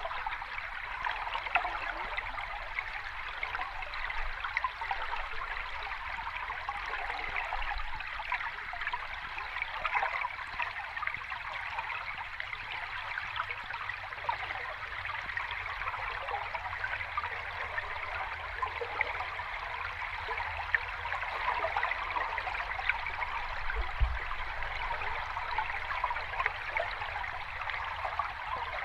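Water running and splashing steadily over rocks in a small cascade or stream, an even rushing babble with small irregular splashes.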